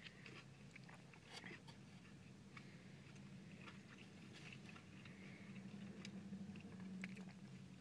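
Faint chewing of a bite of crispy breaded chicken strip, with small scattered mouth clicks, over a low steady hum.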